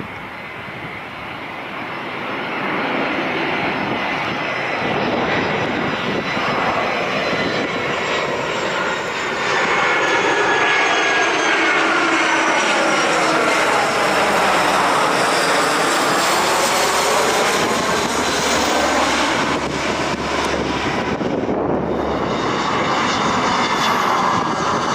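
Airplane engines passing low overhead. The sound builds over the first ten seconds and stays loud, with a sweeping, phasing change in pitch as the aircraft goes over, about midway through.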